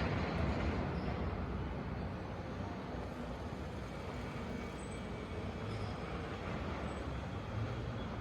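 Steady ambient background rumble with a wash of noise and no distinct events, easing slightly in level partway through.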